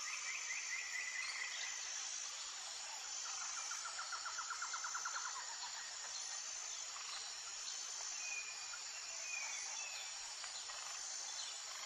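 Tropical forest ambience: a steady, high insect drone, with a rapid trilling call from about three to five seconds in, a short run of chirps at the start and a few brief whistled bird notes later.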